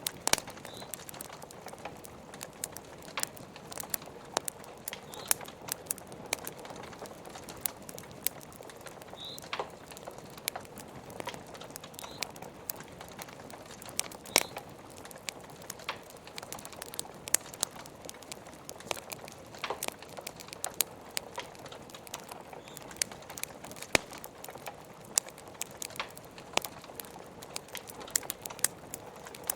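Wood fire crackling, with many irregular sharp pops and snaps, some much louder than the rest, over a steady soft hiss of rain.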